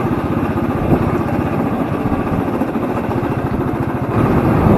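Royal Enfield Thunderbird 350X's single-cylinder engine running under way, with a steady, rapid exhaust beat that grows a little louder near the end.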